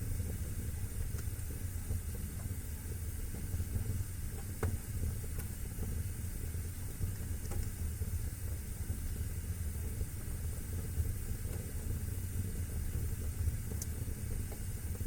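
Wood fire burning in a fireplace: a steady low rumble and hiss, broken by a few sparse, sharp crackles.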